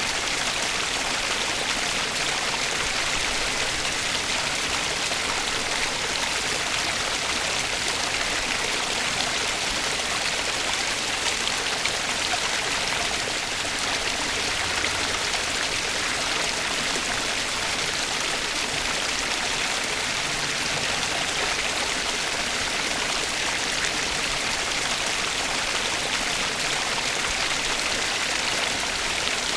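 Flowing water of a stream rushing steadily, an even hiss with no pauses or changes.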